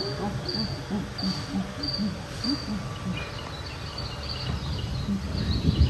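Cricket chirping in short, even pulses about two a second, fading into fainter chirps about halfway through.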